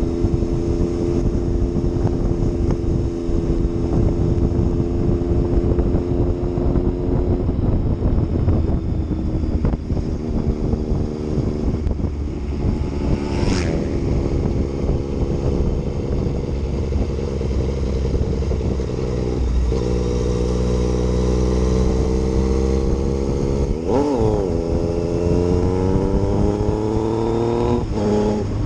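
Yamaha MT-09's three-cylinder engine under way, running steadily at first. In the second half it accelerates, its pitch rising and dropping back at each of two upshifts.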